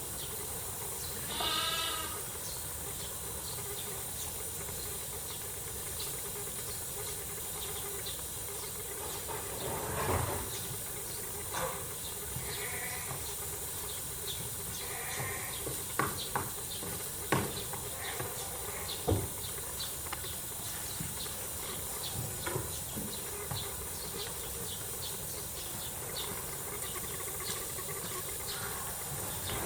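A farm animal bleats once, loudly and with a wavering pitch, about two seconds in; shorter, fainter calls follow later, with a few sharp clicks partway through, over a steady background hiss.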